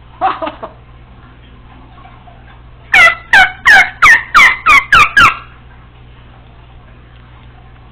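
Congo African grey parrot: a brief soft clicking chatter, then about three seconds in a rapid run of about eight loud, shrill calls. Each call falls in pitch, about three or four a second.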